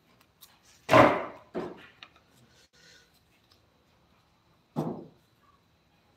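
A loud thump about a second in, a softer one just after, and another thump near the end, like hard objects knocked or set down in a small workshop.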